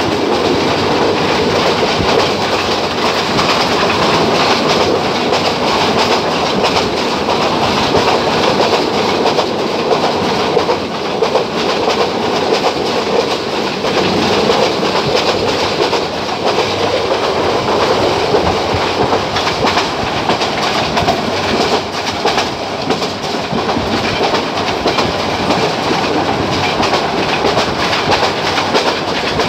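Mohanagar Goduli passenger train running along the track: a steady rumble and rush, with wheels clattering over rail joints.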